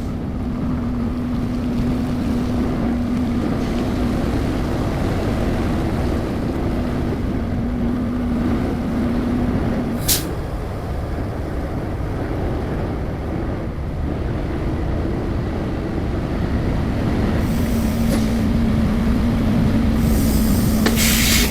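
Cab noise of a Volvo semi-truck on the highway: steady engine and road rumble with a steady drone that fades for several seconds in the middle and comes back. There is one sharp click about ten seconds in.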